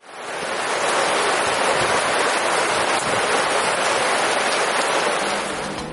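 Heavy rain pouring down, a steady dense hiss that fades in at the start and eases slightly near the end.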